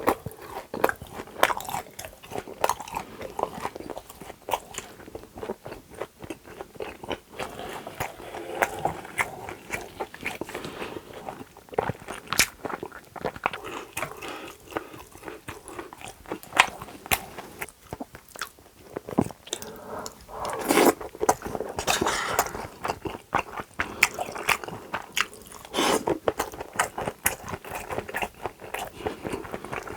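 Close-miked chewing and eating: a steady run of wet mouth clicks, bites and smacks, with a few louder, fuller mouthfuls about two-thirds of the way in.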